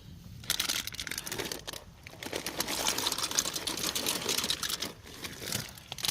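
Dry pasta rattling and clicking as it is poured out of its crinkling plastic bag, starting about half a second in.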